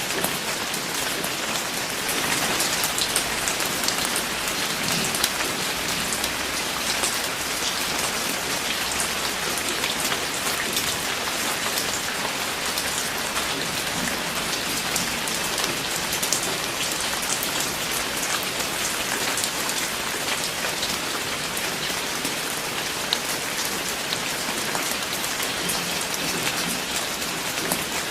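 Steady rain falling on a surface, with the patter of many individual drops over a constant hiss.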